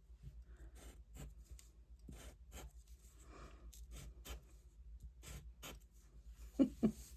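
Light scratching, tapping and rustling of small paper cutouts and craft tools being handled on a work surface, in many short strokes. Near the end come two brief, louder low sounds close together.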